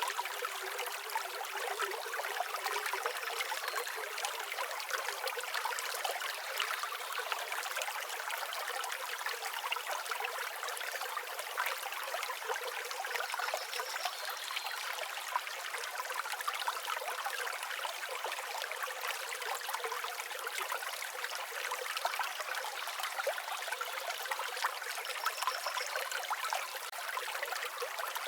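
Steady trickling, babbling water like a small stream, running evenly without a break.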